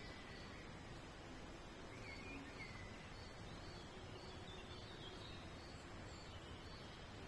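Faint birds chirping over a steady background hiss: short high chirps repeating throughout, with a couple of lower curved notes about two seconds in.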